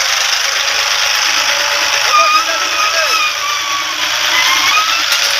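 Tractor engine running steadily. Faint voices call out in the middle.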